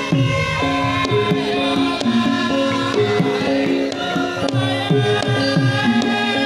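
Javanese gamelan music for lengger and mask dance: hand-drum strokes that slide down in pitch over ringing, held metal notes, in a steady rhythm.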